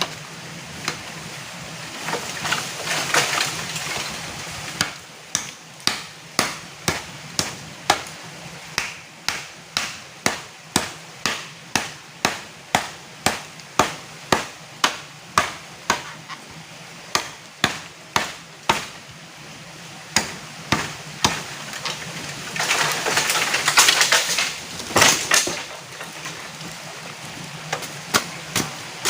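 Chopping: a long run of sharp, even strikes at about two a second, with steady water noise behind. A louder burst of rustling comes near the end.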